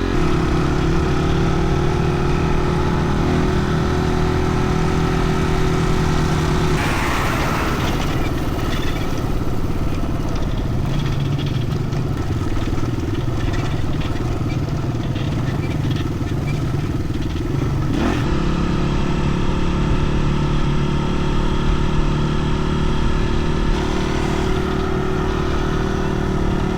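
Dirt bike engine running at a steady pitch while ridden along a trail. A harsher, noisier stretch comes in about a third of the way through and eases off after about ten seconds.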